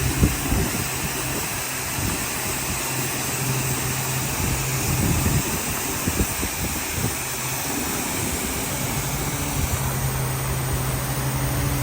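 Car wash machinery running: a steady machine hum over an even hiss, with a few low knocks in the first half.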